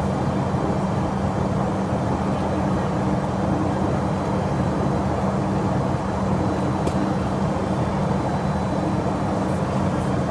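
Airliner jet engines running steadily: an even rushing noise with a constant low hum that does not change in pitch or level.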